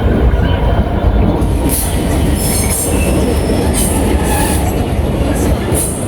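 Train moving through the station with a loud, steady low rumble, joined from about a second and a half in by short high-pitched wheel squeals that come and go.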